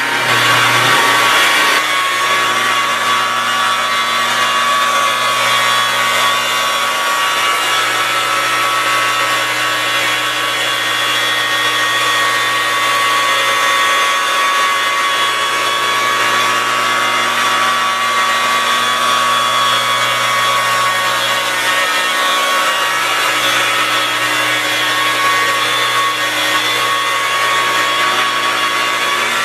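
Electric car buffer running steadily, its soft black foam pad spreading fine swirl-remover polish over the paint: a steady motor whine over a rubbing hiss, a little louder for the first couple of seconds.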